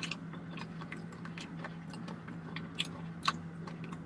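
A person chewing food close to the microphone, with scattered short wet mouth clicks and smacks; two sharper clicks stand out about three seconds in. A steady low hum runs underneath.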